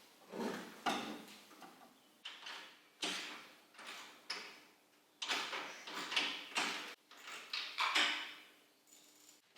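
Irregular clanks and scrapes of metal parts and tools being handled, a dozen or so separate knocks, some ringing briefly.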